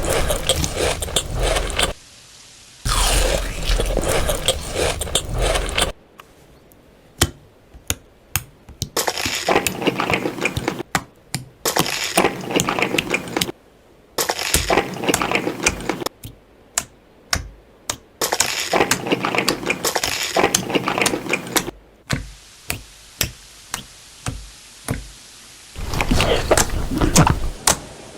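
Close-miked chewing of crunchy food: bursts of loud crackling crunch a few seconds long, with sharp single clicks and smacks in between.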